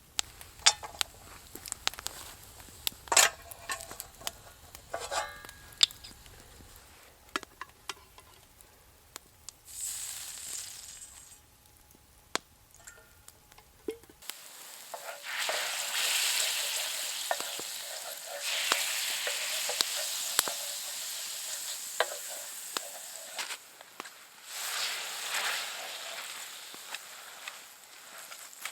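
Sharp clicks and taps like a utensil on cookware, then from about halfway food sizzling loudly as it fries in a hot pan, swelling and easing a few times.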